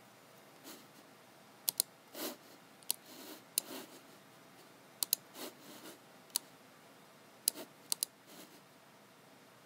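Computer mouse and keyboard in use: sharp clicks, several in quick pairs, with softer, duller taps between them at an irregular pace.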